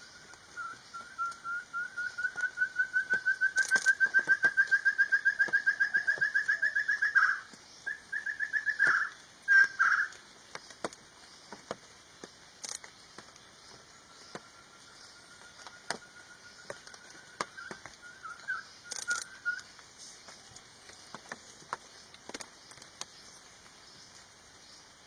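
A bird calling: a long run of rapid repeated notes that rises slightly in pitch and grows louder for about seven seconds, then breaks off into a few short phrases. A fainter run of the same notes comes again about halfway through.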